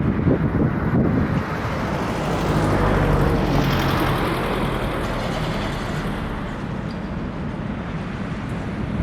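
A motor vehicle passing by, swelling to its loudest about four seconds in and then fading, with wind buffeting the microphone.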